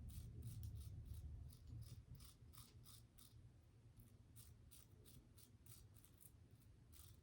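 Safety razor scraping through stubble in short, quick strokes, a couple a second, with a brief pause about halfway through: a Gillette Tech fat handle razor fitted with a 3D-printed base plate, cutting through whiskers during a shaving pass.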